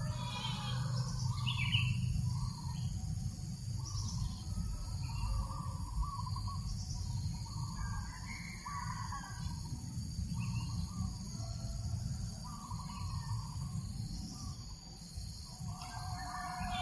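Birds calling in the open: many short calls, one after another and overlapping, over a steady low rumble of breeze.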